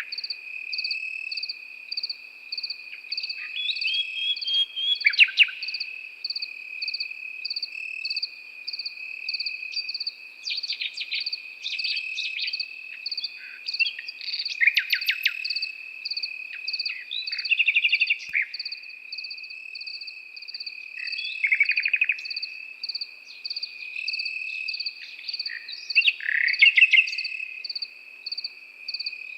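Nightingale singing in short separated phrases of rapid repeated notes and trills, over the steady, unbroken chirring of crickets and a second insect call pulsing about twice a second.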